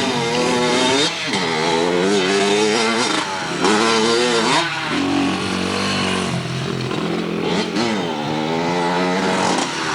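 Dirt bike engine revving, its pitch rising and falling back several times as the throttle is worked.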